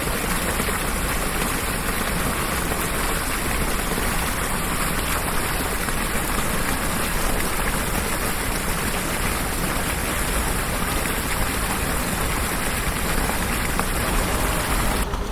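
Steady rain falling, an even hiss of many drops with no let-up, cutting off abruptly in the highest part just before the end.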